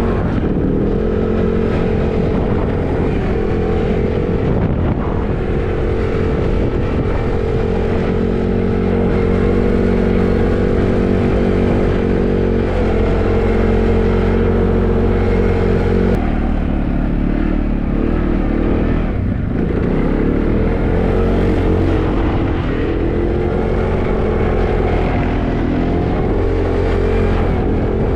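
Tractor engine running steadily while pushing a snow plow. Its note drops about sixteen seconds in, then rises and falls as the engine works.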